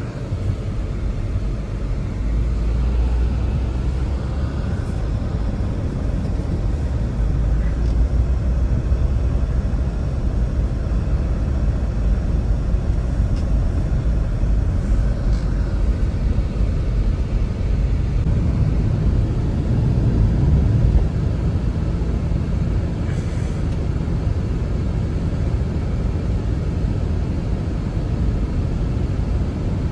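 Strong blizzard wind blowing, a steady low rumble with gusts.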